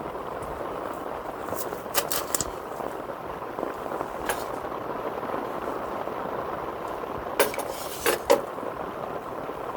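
Steady heavy rain hissing on the camp shelter. A handful of sharp clicks and clinks of handled gear come about two seconds in, again near four seconds, and in a cluster near the end.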